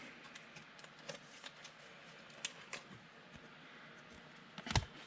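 Trading cards being handled and flipped through one by one: faint clicks and slides of card stock, with one louder knock near the end.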